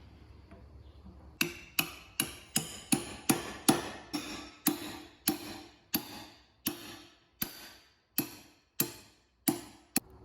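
A hammer striking a workpiece in a run of about seventeen blows, quick at first and then slowing, each one ringing briefly.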